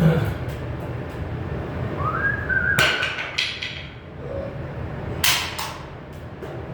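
Sheet metal being struck: two pairs of sharp hits, about three seconds in and about five seconds in. Just before them comes a brief whistle that rises and then holds.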